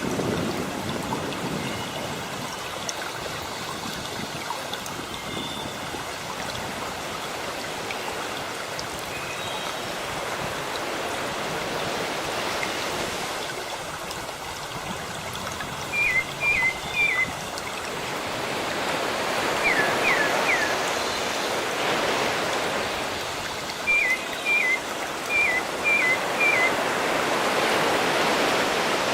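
Sea waves washing in steadily, swelling and easing every several seconds. From about halfway through, a bird calls in quick groups of three or four short high chirps.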